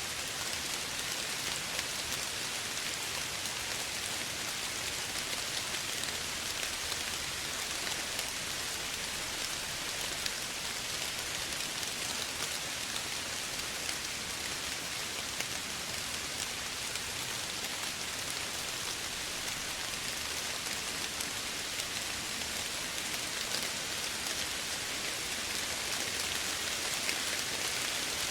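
Steady gentle rain falling, an even hiss of many drops with faint scattered patters.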